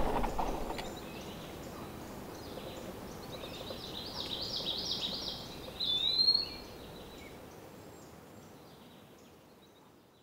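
A bicycle rolling past on a gravel track, its tyre noise fading within the first second. A bird then sings a quick run of high notes from about three seconds in, ending in a louder call about six seconds in, before the outdoor ambience fades out.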